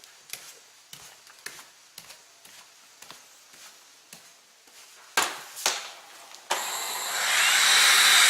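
Faint scattered clicks and knocks of plastic parts being handled, then two sharper clicks just after five seconds. About six and a half seconds in, the LG CordZero A9 cordless stick vacuum switches on: its motor starts suddenly and builds within half a second to a steady, high hiss.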